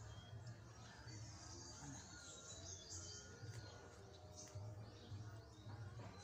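Quiet outdoor ambience: faint bird chirps, short and scattered, over a low hum that swells and fades.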